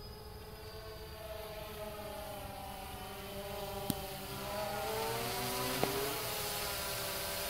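DJI Phantom 2 Vision quadcopter's propellers whining in flight, with several tones whose pitch slides up and down as the motors change speed, growing louder in the second half. Two sharp clicks come about four and six seconds in.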